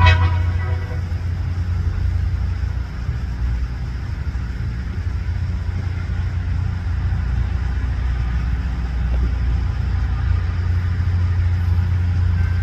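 LORAM rail grinder working along the track: a steady, loud low diesel drone. The tail of a horn blast dies away in the first second.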